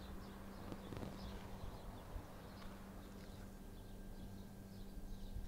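Faint outdoor background: small birds chirping on and off over a steady low hum, with a couple of soft knocks about a second in.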